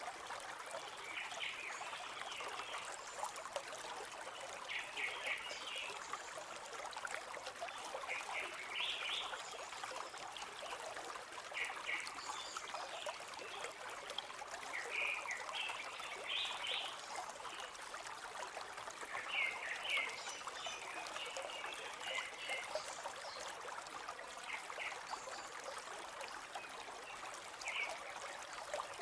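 River water flowing steadily, with birds chirping in short clustered bursts every few seconds.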